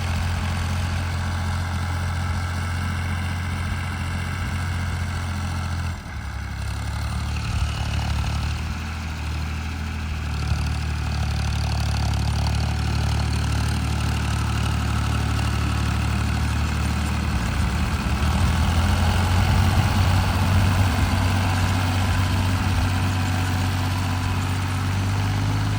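Tractor engine running steadily while ploughing a field. Its note shifts about six seconds in and grows a little louder later on.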